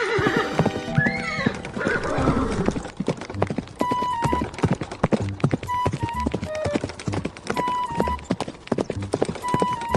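Horse whinnying in the first two seconds or so, followed by a horse's hoofbeats at a canter: a quick, regular clip-clop. A short two-note tone repeats about every two seconds over the hoofbeats.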